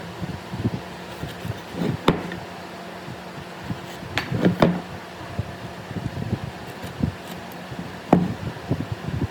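Irregular knocks and clicks of objects being handled, with sharper ones about two, four and a half and eight seconds in, over a steady low hum.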